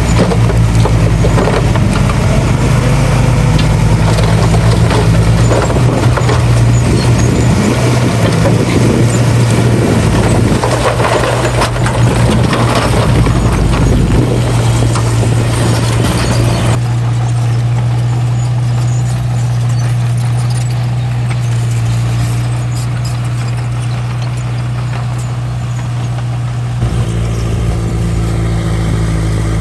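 Bulldozer diesel engine running steadily, with heavy clatter and scraping over it for most of the first half. About halfway through the sound changes abruptly to a quieter, smoother engine hum, and it changes suddenly again near the end.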